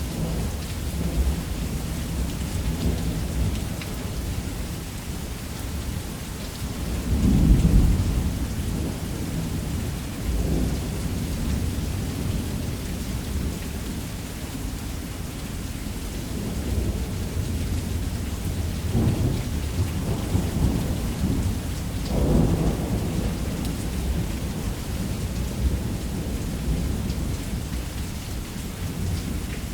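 Steady heavy rain on a roof with rolling thunder underneath. The loudest thunder peal comes about seven seconds in, and weaker rumbles follow a few more times.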